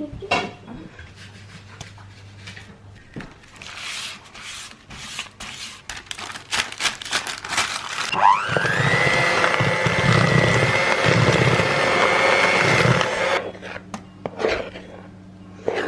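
Scattered clicks and knocks of kitchen utensils, then about eight seconds in an electric mixer's motor spins up to a steady high whine, runs for about five seconds and stops.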